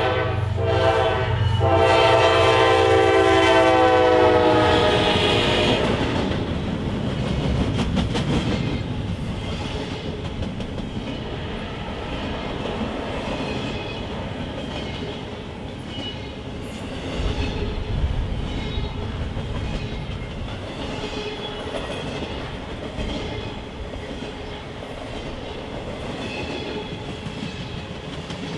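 Diesel freight locomotive's air horn sounding a chord, with two short breaks in the first seconds, and then held until it stops about five to six seconds in. After that, the freight cars roll past with a steady rumble and the clickety-clack of wheels over rail joints.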